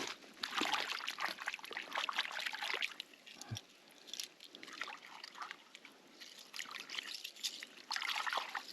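Water trickling and pouring in short spells over a corroded bracelet and copper coins as they are rinsed, with small clicks from handling.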